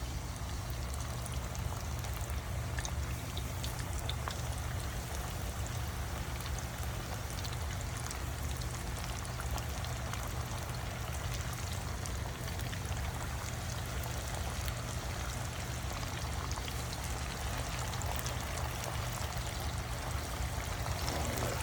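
Breaded chicken tenders deep-frying in hot oil at about 350°F: a steady sizzle and bubbling with scattered small pops.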